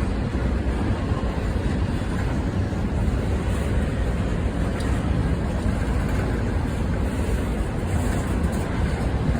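Goods train passing, a steady low rumble that holds without a break.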